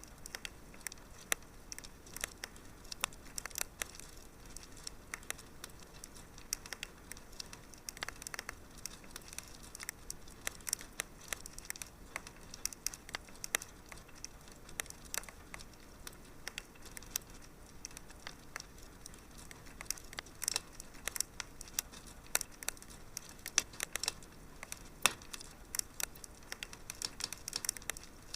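Wood fire crackling in a fireplace: a low steady hiss with frequent sharp, irregular pops and snaps.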